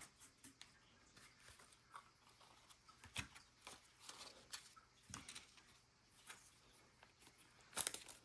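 Faint rustling and light clicks of trading cards and pack wrappers being handled, with a cluster of sharper ones near the end.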